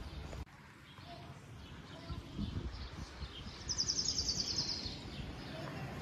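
A bird's rapid, high trill lasting about a second, falling slightly in pitch, over outdoor background noise.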